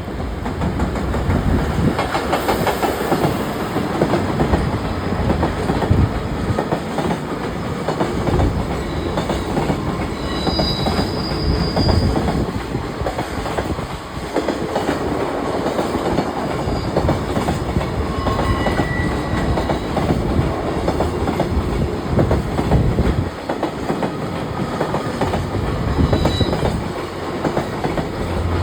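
A JR Freight train hauled by an EF210 electric locomotive passing, its wheels clattering over rail joints in a continuous run of clickety-clack, with a few short high wheel squeals along the way.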